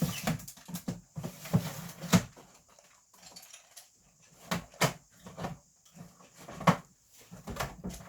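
Small objects being handled and rummaged through: a run of light clicks and knocks, with sharper knocks about two, five and seven seconds in.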